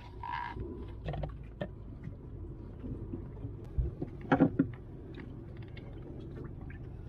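A few sharp knocks and clanks over a steady low rumble, the loudest knocks about four seconds in.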